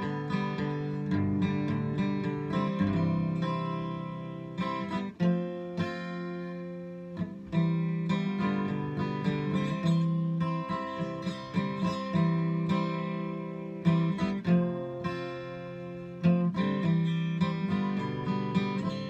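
Acoustic guitar playing an instrumental break in a slow country ballad, chords strummed and left to ring, with a fresh strum every second or two.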